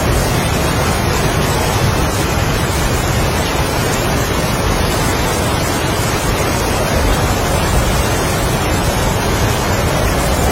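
Heavy rain and strong wind together, a steady dense rush of noise with no separate drops or gusts standing out.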